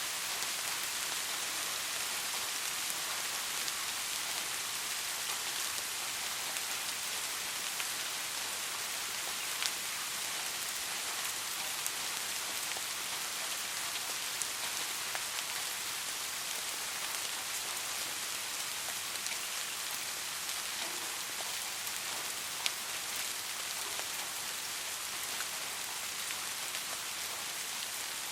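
Steady rain falling on a surface: an even hiss of many drops, with now and then a single louder drop tick.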